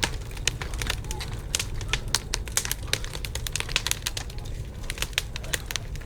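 Bonfire crackling, with many sharp irregular pops over a low steady rumble.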